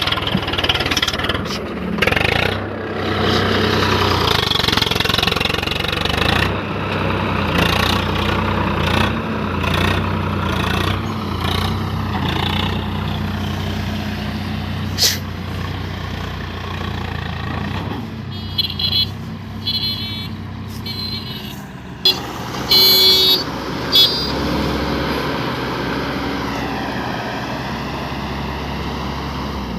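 Diesel engine of a Swaraj four-wheel-drive tractor running under load in deep mud, its engine speed rising and falling. A few short, high-pitched bursts cut in about two-thirds of the way through, the loudest sounds of the stretch.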